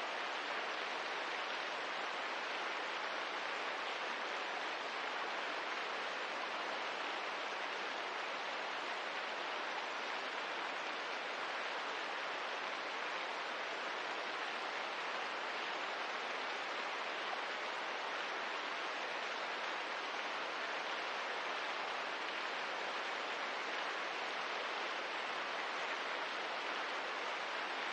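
Steady rain heard as an even hiss, unchanging throughout, with no separate drops or crackles standing out.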